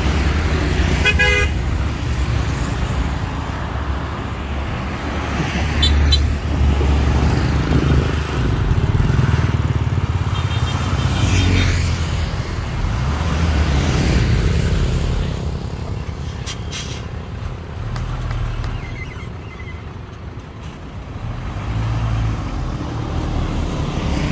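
Heavy diesel engine of construction equipment running steadily, its level rising and easing at times, with a few brief horn toots over it.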